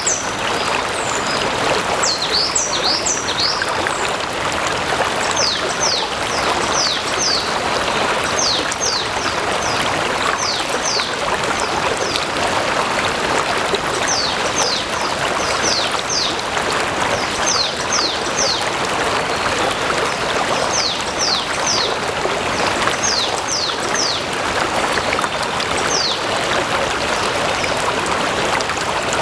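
Small stream or brook flowing steadily. Over it, a small bird calls repeatedly: clusters of three or four quick, high chirps falling in pitch, which stop a few seconds before the end.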